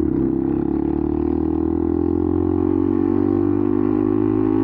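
Benelli TNT 125's single-cylinder engine running loudly through a cheap aftermarket slip-on exhaust, holding a steady, even note.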